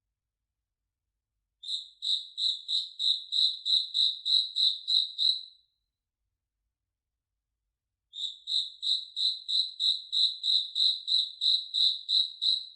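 A cricket chirping, a clean high-pitched pulse repeated about three times a second, in two runs of about four seconds each with a silent gap between them.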